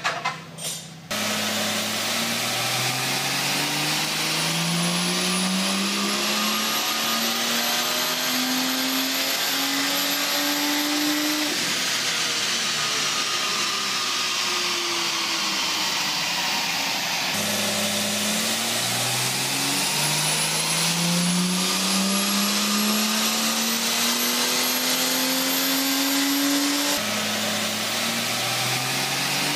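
Ford Falcon G6E Turbo's turbocharged 4.0-litre inline-six at full throttle on a chassis dyno, its note climbing steadily in pitch over about ten seconds per pull, with a faint high whine rising above it. The pulls are cut together, each dropping back abruptly and climbing again, after a couple of brief knocks in the first second.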